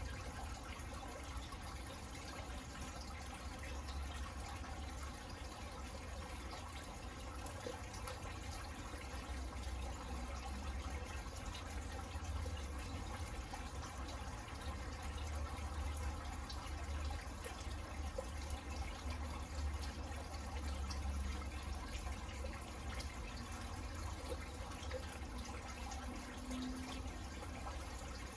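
Steady rain falling on a garden: an even hiss dotted with many small drop ticks, over a low, uneven rumble.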